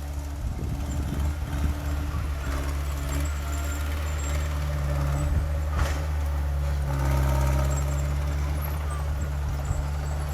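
Heavy diesel engine of earthmoving equipment running steadily, its note swelling slightly about seven seconds in. A single sharp knock sounds about six seconds in.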